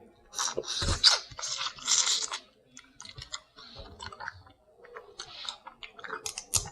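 Close-up eating sounds: chewing and wet smacking of seafood, with a louder stretch of crunching from about half a second to two and a half seconds in, then scattered small clicks and softer smacks.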